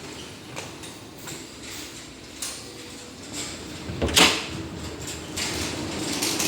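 Sliding door opening, with a sharp loud knock of noise about four seconds in, amid faint knocks and footfalls.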